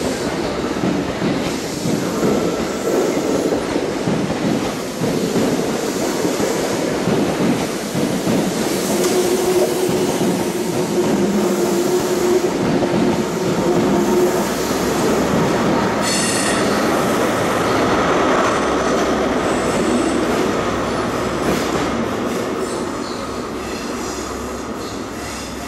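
A train running past at close range: a continuous rumble of wheels on rail with a steady hum in the middle and a brief high-pitched wheel squeal about two-thirds of the way through, the noise dying away near the end as it moves off.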